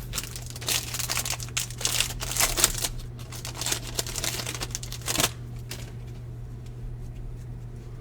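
Crinkling and rustling of a baseball card pack wrapper and cards being handled, for about five seconds. After that it settles to a few faint light ticks.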